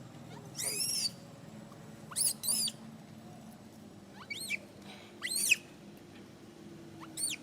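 Baby monkey giving a series of short, high-pitched squealing cries, about six in all, each rising and then falling in pitch; the loudest comes about five seconds in.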